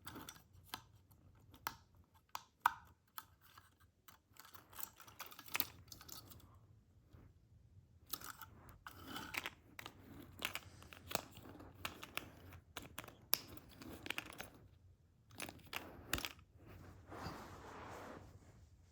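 Small toy cars and plastic playset pieces being handled close to the microphone: irregular light clicks and taps with bouts of plastic rustling and crinkling.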